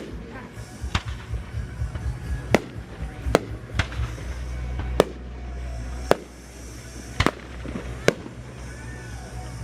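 Aerial fireworks bursting: about nine sharp bangs at irregular intervals, roughly one a second, over a steady low rumble.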